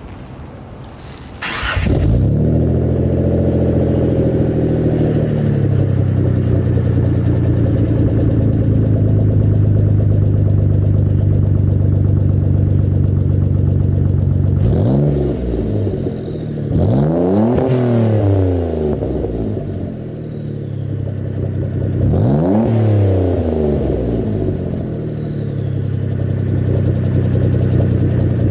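Turbocharged Mitsubishi 3000GT/GTO V6 with a 3-inch single-exit exhaust starting up about a second and a half in, running at a fast idle that settles to a steady idle, then revved twice, each rev rising and falling with a falling whistle as it drops.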